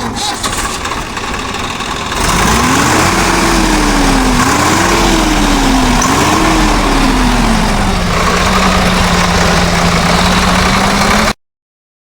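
Swaraj 744 FE tractor's three-cylinder diesel engine running. About two seconds in it revs up and down three times, then settles to a steady speed, and the sound cuts off suddenly near the end.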